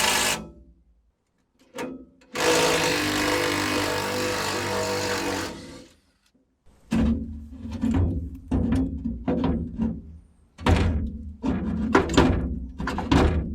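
A steady harsh mechanical noise for about three seconds. Then, after a short gap, a run of irregular heavy thunks, about one or two a second: metal being struck with a hammer to free seized bolts on an old excavator's cab.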